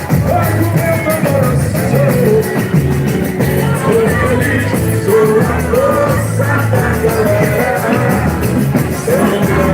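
Live boi-bumbá toada: a singer's voice carries the melody over an amplified band with steady bass and a driving beat.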